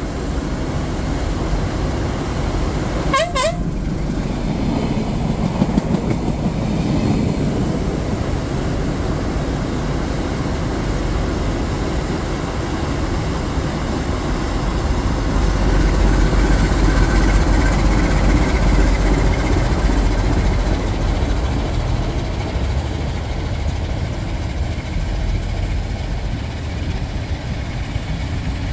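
Siemens Desiro diesel multiple unit running through the station with a steady low rumble, louder for a few seconds in the middle. A short train horn blast sounds about three seconds in.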